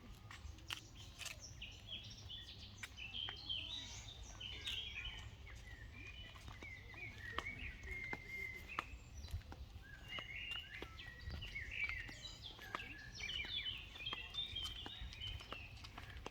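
Several birds singing and chirping at once, quick overlapping trills and chirps, over a steady low rumble, with scattered sharp clicks.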